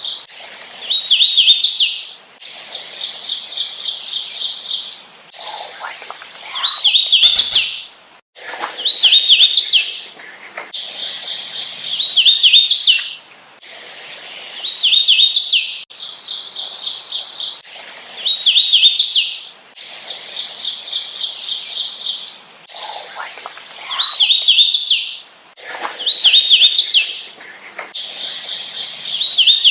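Hooded warbler singing over and over, a new song about every two seconds: each is a quick run of clear, slurred notes ending in an emphatic rising flourish. Several recordings are spliced together.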